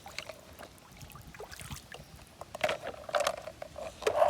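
Water splashing and sloshing with light knocks of plastic, as toy vehicles are washed by hand; the splashing grows louder in the second half.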